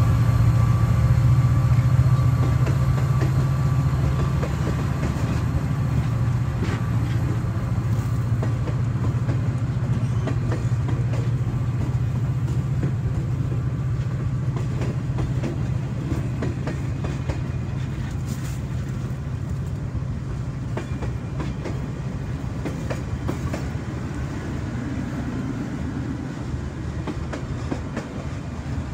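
Alaska Railroad passenger cars rolling past on the rails: a steady low rumble and wheel noise with scattered clicks over the rail joints, slowly fading as the train moves on.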